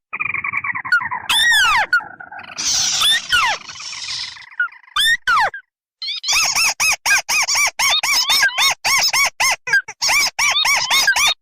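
Recorded crake calls played as a bird lure: a drawn-out sliding call with a few sweeping notes, then a harsher noisy stretch, and after a short break a fast run of short repeated notes, several a second.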